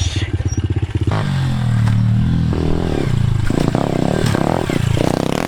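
Pit bike engine running under riding load: slow, separate firing beats at low revs, the pitch falling about a second in, then the throttle opened and closed in uneven bursts near the end.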